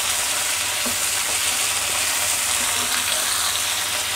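Cluster beans and garlic sizzling in hot mustard oil in an iron kadhai over a low gas flame, turned over with a perforated metal spatula; a steady frying hiss.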